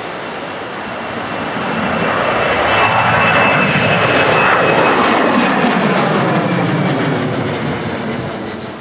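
Airliner engines passing close, swelling to a peak mid-way and fading, with a steady high whine and a pitch that falls as the aircraft goes by.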